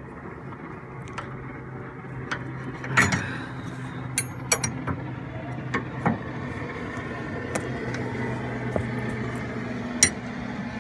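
Hand tools clinking and knocking against metal parts, a dozen or so sharp separate strikes with the loudest about three seconds in and near the end, over a steady low hum.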